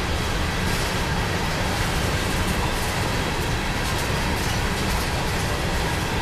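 Covered hopper cars of a freight grain train rolling past on the rails: a steady rumble of steel wheels on track, with scattered clicks of wheels passing over the rail.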